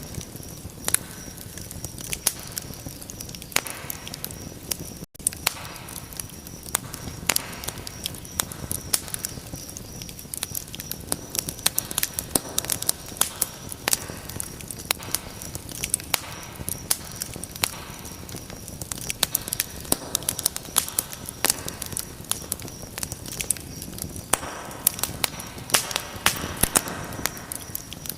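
Fireplace fire crackling: dense, irregular pops and snaps over a soft steady hiss, with a momentary dropout about five seconds in.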